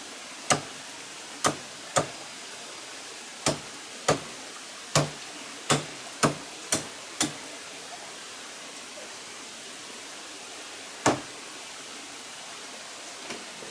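About a dozen sharp knocks or chops at an uneven pace, bunched in the first half with one more a few seconds later, over a steady background hiss.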